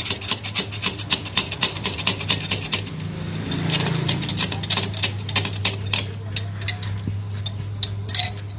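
Hand-tool work on metal: a quick series of sharp scraping strokes or clicks, about four or five a second, over a steady low hum.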